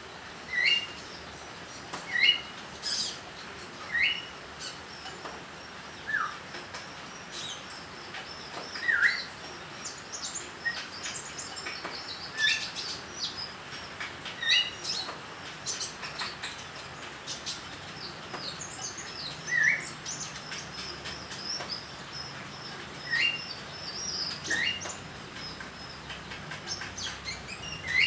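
Young brown-throated sunbird practising its song: short, separate chirps, several sliding down in pitch, given at irregular intervals with fainter high twitters between them.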